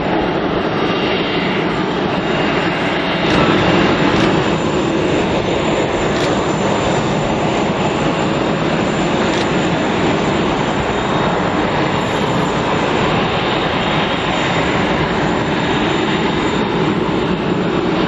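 Boeing 747-400's four jet engines at take-off power: a loud, steady rush of jet noise that swells slightly a few seconds in.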